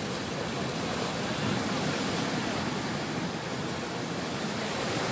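Steady, even rushing of ocean surf breaking on the shore.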